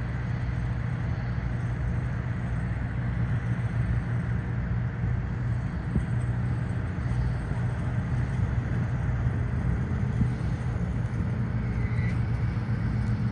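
Steady low engine rumble on an airport apron, even throughout with no distinct events.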